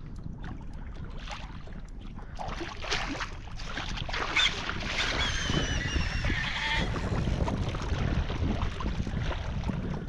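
Wind buffeting the microphone and water sloshing around a kayak on open water. About five seconds in, a brief high, wavering call rises over it for a couple of seconds.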